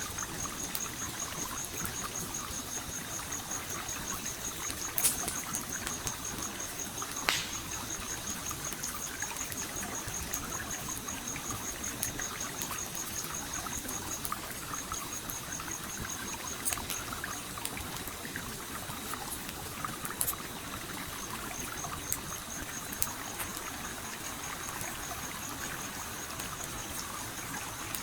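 Stream water flowing and trickling steadily, with occasional sharp crackles and pops from a campfire, the loudest two about five and seven seconds in. A high, fast-pulsing trill runs behind it and breaks off twice.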